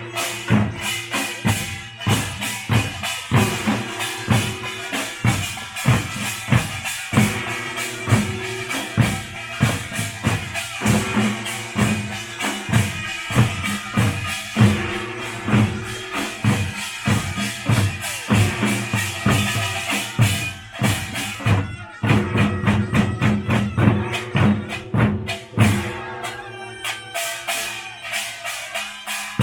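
Korean pungmul (nongak) farmers' band playing: drums beaten in a fast, driving rhythm under the ringing, clanging strokes of small handheld gongs. There is a brief drop about two-thirds of the way through before the playing picks up again.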